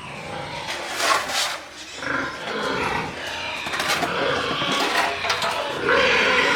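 Pigs squealing in repeated loud bursts, loudest about a second in and again near the end.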